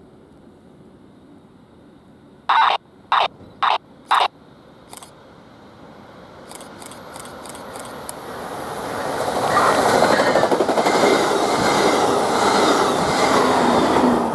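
Four short, loud blasts about half a second apart, then a train approaching and passing close by, its rail noise rising over a couple of seconds and then staying loud.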